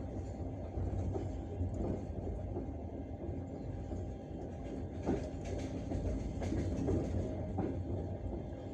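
Passenger train wheels clattering over rail joints during a run, over a steady low rumble, with a run of sharp clacks in the second half.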